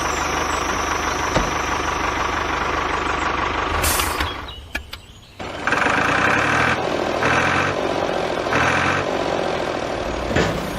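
A small engine running steadily. It drops away briefly about four and a half seconds in, then comes back louder with a pulsing beat.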